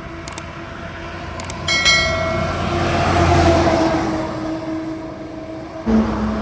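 A heavy truck passing close by on a highway: engine and tyre noise swell to a peak about three seconds in and then fade, with a brief high-pitched tone just before the peak.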